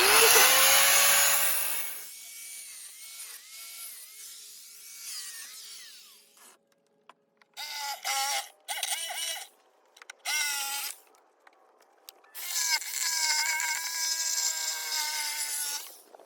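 A power saw cutting through old step boards, run in several bursts. There is a loud cut at the start that dies away within about two seconds, short bursts of the motor between about seven and eleven seconds in, and a longer steady run near the end.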